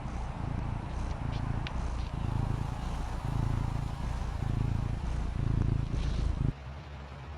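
Maine Coon cat purring, a low rumble that swells and eases about once a second; it cuts off suddenly near the end.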